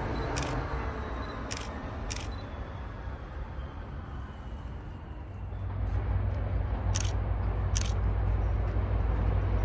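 Low rumble of a train that grows louder about halfway through, with several sharp clicks scattered through it.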